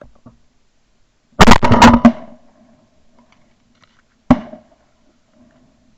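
Shotgun blasts: a quick volley of several shots about a second and a half in, then one more single shot a few seconds later.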